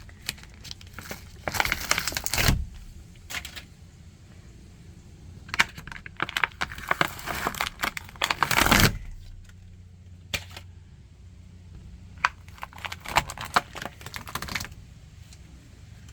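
Fake ceiling tiles being pulled and torn off a van's ceiling by hand, in several tearing, crinkling bouts with pauses between them; they come away easily because their adhesive has failed in the heat.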